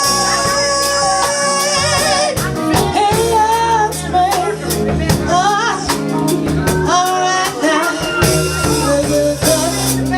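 A live band plays with a singer: sung lines with vibrato over held chords and a steady drum beat.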